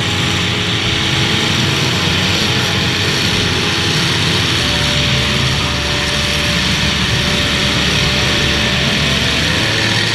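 Demolition derby cars' engines running loud and steady, a dense unbroken din of several motors at once.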